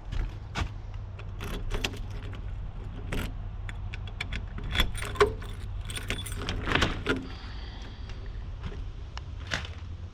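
Light metallic jingling and scattered rattling clicks over a steady low vehicle rumble.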